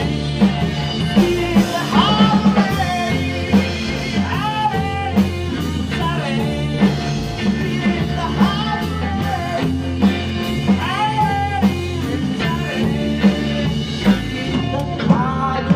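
Blues-rock band playing without vocals: a lead guitar playing bending notes over a steady bass line and a drum beat of about two hits a second.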